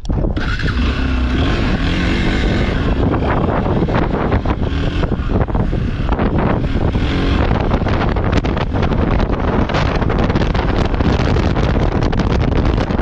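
Enduro dirt bike engine running steadily, with wind rumbling on the microphone.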